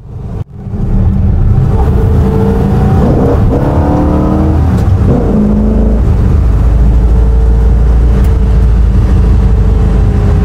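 1962 Pontiac Catalina's V8 engine accelerating. Its pitch rises and falls through the revs over the first few seconds, then settles into a steady low drone as the car drives on.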